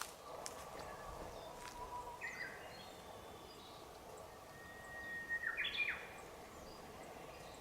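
A songbird singing two short phrases, each a held whistled note followed by a quick tumbling flourish, over a soft outdoor hush.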